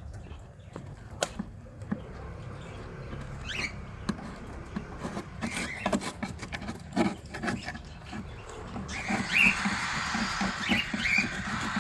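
Cockatiels scratching and pecking with many small clicks, giving a few short chirps, once a few seconds in and three times near the end. A louder rustling noise comes in about three-quarters of the way through.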